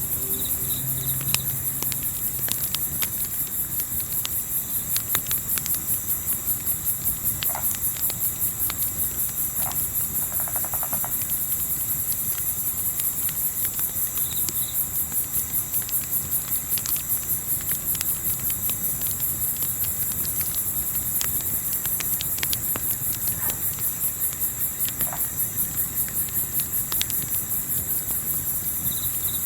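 Crickets chirping in a steady, evenly pulsing chorus, with scattered sharp snaps and pops of a crackling campfire.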